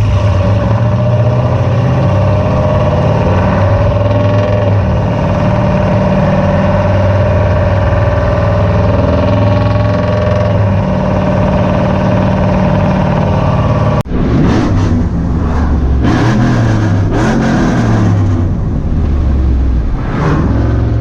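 Cammed 6.0-litre V8 of a Chevy Silverado SS running loud through long-tube headers and straight pipes with no muffler. The note holds steady, then after an abrupt cut about 14 seconds in it rises and falls.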